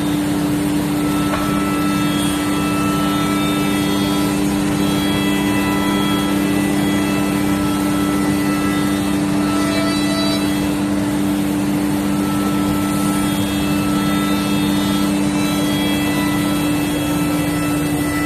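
CNC router spindle running steadily with a constant pitched hum over machining noise.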